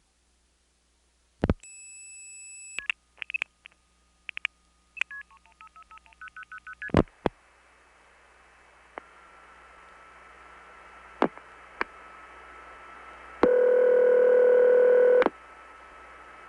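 Telephone-line audio of a 1970s long-distance call. A soft steady 2600 Hz tone sounds briefly and makes the trunk flash. Clicks and quick multifrequency (MF) outpulsing beeps follow as the crossbar tandem sends the number onward, then hissing line noise with scattered clicks, and near the end a loud buzzy tone for about two seconds.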